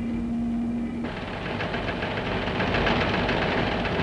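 A steady engine hum that, about a second in, cuts to a louder rattling engine running with a rapid, even knock.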